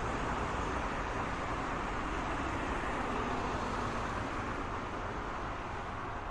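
Steady road traffic noise, a continuous wash of passing cars with no single vehicle standing out, easing slightly near the end.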